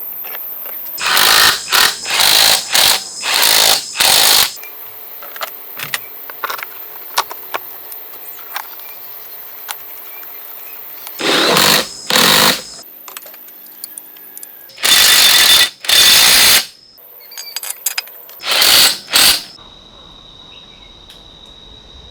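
A power tool run in repeated short, loud bursts, with light clicks and clinks between them.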